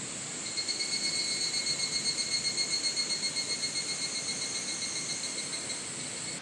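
A high-pitched insect call, pulsing about six times a second; it starts about half a second in, slowly fades, and cuts off suddenly, over a steady background hiss.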